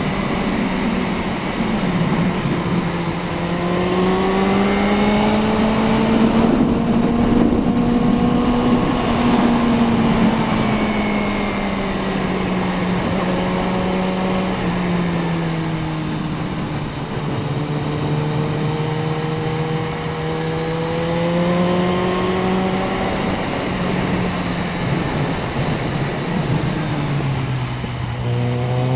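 Suzuki Bandit 650N's inline-four engine heard from the bike while riding, its pitch rising and falling as the throttle opens and closes through curves, over steady wind and road noise. The note climbs over the first several seconds, drops back, and falls again near the end.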